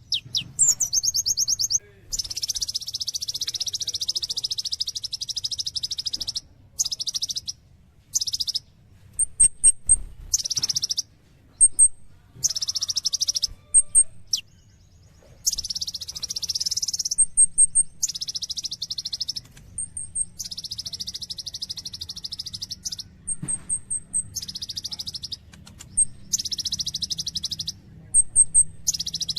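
Kolibri ninja (purple-throated sunbird) singing hard: repeated rapid, buzzy high-pitched trills of one to four seconds each, broken by short gaps filled with brief, very high chip notes.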